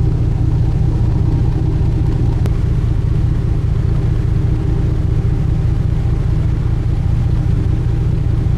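Sightseeing cruise boat's engine running steadily, a constant low rumble with a hum over it, heard on board while under way.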